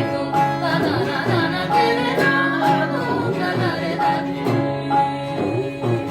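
Singing practice: a voice sings gliding, ornamented notes over steady held accompaniment notes, with a low beat about once a second.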